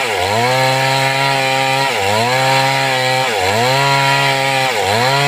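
Two-stroke Stihl chainsaw running at high revs, its pitch dipping sharply and recovering four times, about every one and a half seconds.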